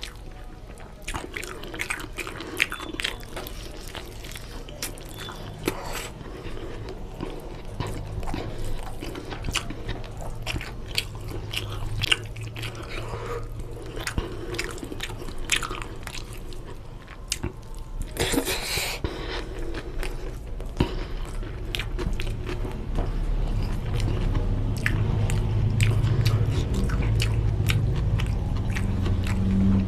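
Close-miked chewing and smacking as mouthfuls of mutton biryani, eaten by hand, are worked through, with many short wet clicks; the chewing gets louder in the last third.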